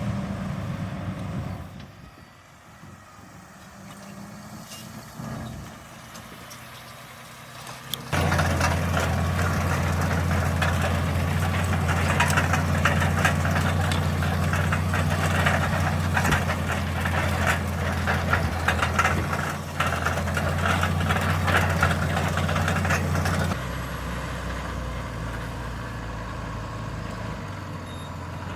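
Valtra Q Series tractor's engine running under ploughing load. It drops away for a few seconds near the start, then comes in loud and suddenly about eight seconds in with a busy crackle on top, and eases back about fifteen seconds later to a steadier hum.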